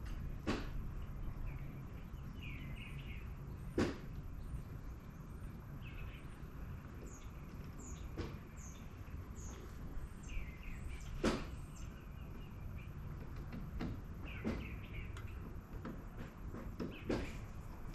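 Birds chirping in short repeated phrases over a steady low rumble, with a sharp knock or click every few seconds.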